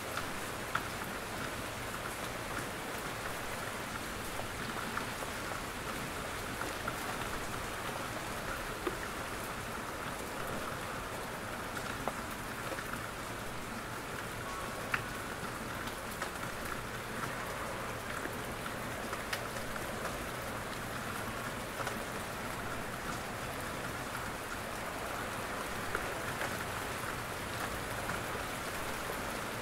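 Steady rain falling in a forest, a constant hiss with scattered louder drips of individual drops falling from the trees.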